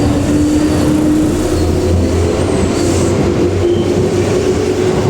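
Seibu 10000 series electric limited express train pulling out of a station: a steady rumble of wheels and running gear, with a motor whine that slowly rises in pitch as the train picks up speed.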